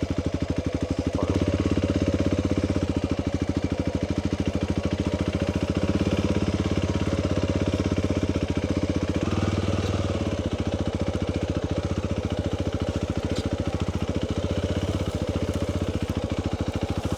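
Motorcycle engine running steadily at low revs with an even firing pulse, the bike ridden very slowly with a log loaded on it.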